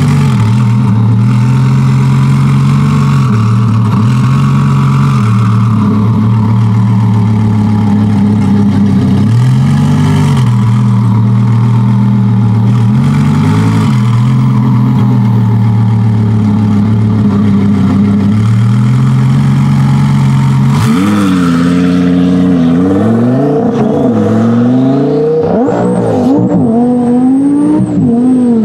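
Twin-turbo V10 of a modified Audi R8 GT held at steady raised revs on the start line, with a few brief rises and falls. About twenty seconds in it launches hard and pulls away through several quick upshifts, the pitch climbing and dropping at each shift.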